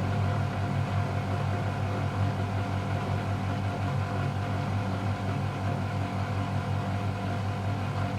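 Miele Novotronic W715 washing machine running steadily: a constant motor hum with no change in speed or level.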